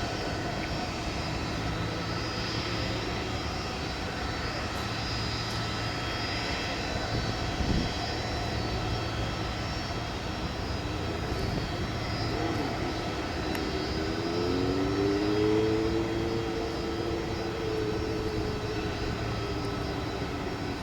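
Airbus A330-223 jet engines running with a steady rumble. A whining engine tone rises in pitch about two-thirds of the way through, then slowly sags. There is a brief thump about a third of the way in.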